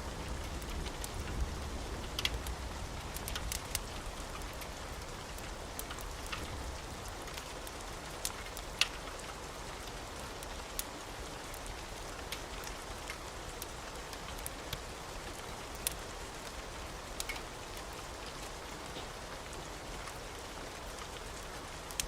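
Steady rain falling, with scattered sharp ticks and pops over it. A low rumble, the tail of thunder, dies away in the first few seconds.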